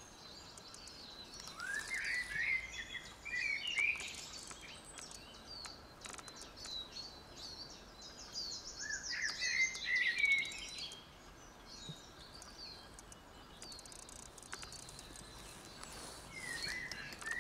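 Songbird singing in three phrases of quick chirping, warbling notes, several seconds apart, with the loudest phrase about two-thirds of the way through.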